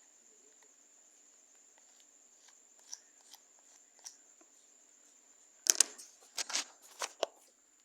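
A failed homemade slime mixture being handled: a few faint clicks, then, about six seconds in, a quick cluster of sharp crackling, tearing-like noises.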